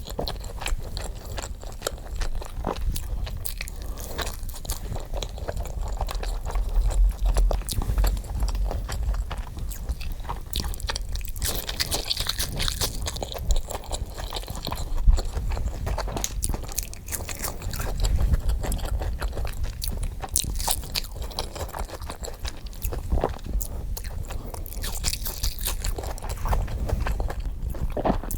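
Close-miked chewing with crunchy bites and wet mouth sounds, a rapid dense stream of crackles, played back sped up.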